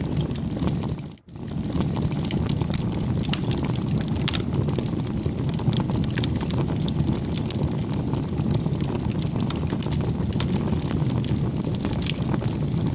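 Crackling campfire: a steady low rumble of flames with frequent small pops and snaps, cutting out briefly about a second in.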